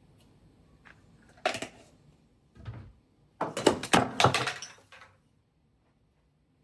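Objects being handled: a sharp knock, a dull thud, then a quick run of clattering clicks about three and a half seconds in.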